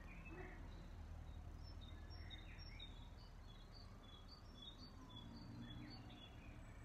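Faint birdsong: short high chirps repeating over a low steady background rumble.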